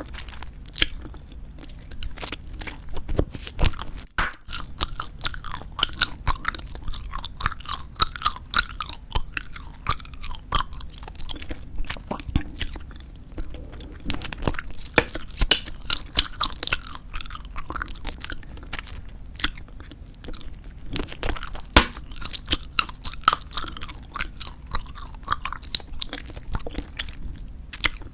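Close-miked chewing of soft tube bubblegum: a steady, irregular run of wet clicks and smacks of the gum against teeth and tongue.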